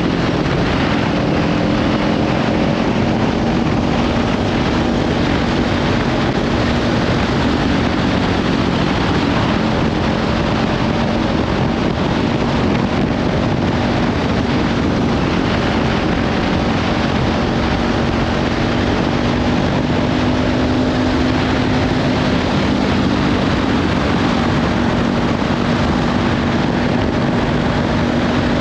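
Kawasaki Ninja 500's parallel-twin engine with a Leovince slip-on exhaust running at a steady cruise, its pitch drifting slightly up and down, under heavy wind noise on the microphone.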